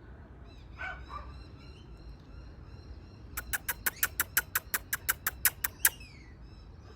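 Birds calling outdoors: faint high twittering throughout. A rapid, even run of about sixteen sharp chips, about six a second, lasts some two and a half seconds from around the middle, followed by a short falling note.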